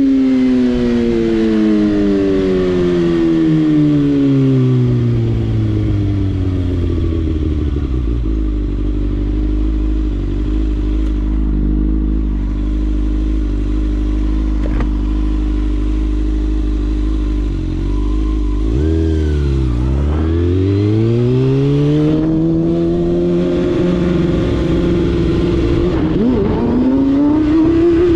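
Motorcycle engine slowing down, its revs falling for several seconds to a low steady idle that holds for about ten seconds. It then pulls away with the revs climbing, holds a steady speed, and changes gear near the end.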